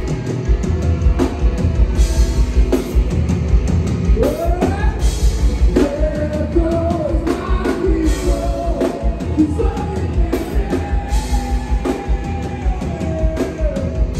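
Live rock band playing loudly: a pounding drum kit with cymbal crashes, and a lead vocal line that comes in about four seconds in.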